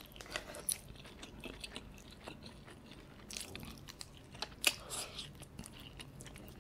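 Close-up wet chewing and biting of a sauce-covered dumpling topped with melted mozzarella: soft scattered mouth clicks and smacks, the sharpest about four and a half seconds in.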